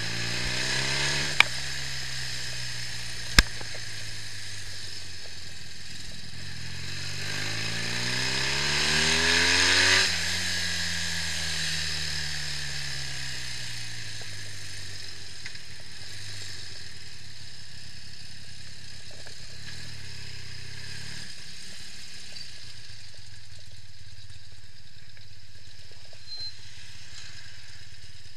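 BMW R65's air-cooled flat-twin engine on a road run, the revs climbing twice. The second climb is the loudest and ends with a sharp drop in pitch about ten seconds in, after which the engine runs lower and steadier and fades out, leaving a steady hiss. There are two sharp clicks in the first few seconds.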